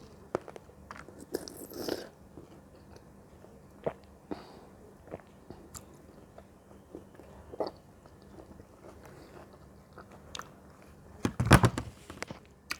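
Close-miked eating of fruit: scattered crisp bites and chewing, with a louder cluster of crunches near the end.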